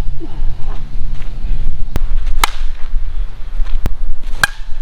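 Dudley Lightning Legend slowpitch softball bat striking softballs: two sharp pinging cracks about two seconds apart, the second a little after the middle. Wind rumbles on the microphone throughout.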